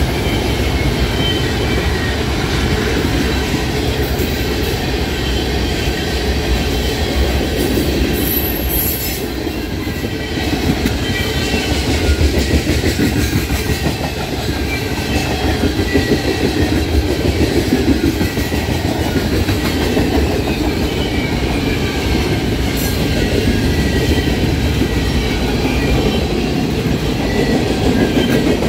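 Freight train cars rolling past: a steady rumble of steel wheels on the rails with continuous clickety-clack.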